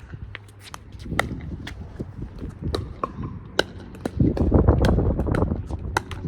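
Pickleball rally: paddles popping against the plastic ball, with ball bounces and court footsteps in between. Wind buffets the microphone, in a loud low gust about four seconds in.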